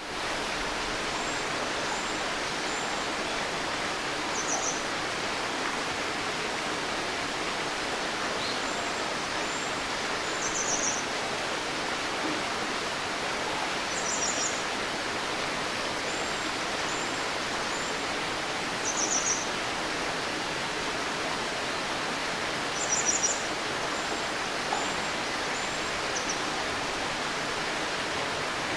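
Steady rush of flowing water, with small birds calling high above it: a short, fast trill about every five seconds between softer high chirps.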